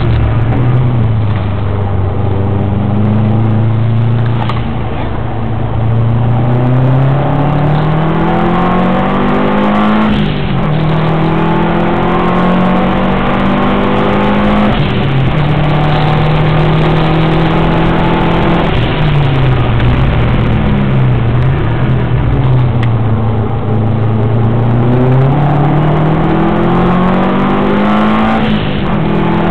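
Subaru WRX's turbocharged flat-four engine under hard acceleration, heard from on board. The engine note climbs and drops back sharply at each upshift several times, and falls and recovers more slowly around two-thirds of the way through as the car slows for a corner.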